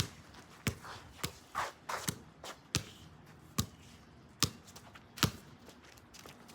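Basketball being dribbled: a string of sharp bounces, roughly one a second, uneven in spacing.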